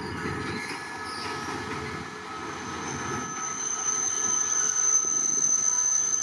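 A train rolling slowly on the track, with a low rumble of the wheels at first. Then the wheels squeal in a steady high-pitched whine from about halfway in, growing louder toward the end.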